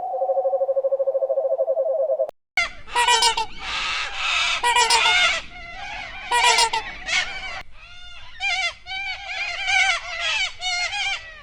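A fast-pulsing trill held on one pitch for about two seconds, then a short break and a flock of poultry calling in many short, overlapping calls.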